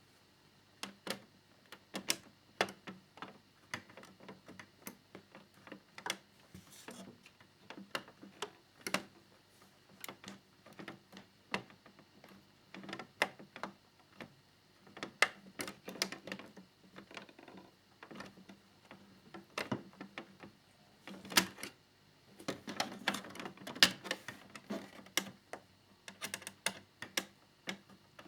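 Irregular small clicks and taps of plastic model parts and a small screwdriver being handled while tiny screws are fitted into a scale model motorcycle's fairing, busiest a little past two-thirds of the way through.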